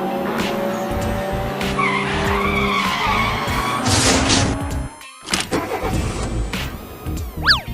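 Background music mixed with cartoon car sound effects: a car engine and tyre skids for the first five seconds. After a brief break, short clicks follow, then a quick falling whistle near the end.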